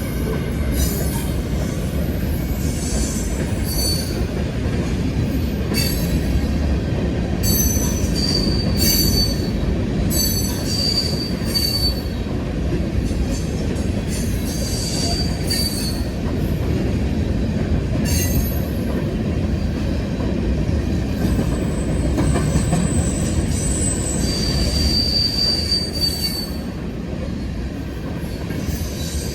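A freight train of empty potash hopper cars rolls steadily past with a continuous rumble of steel wheels on rail. Short high-pitched squeals from the wheels come and go several times, most clearly a third of the way in and again near the end.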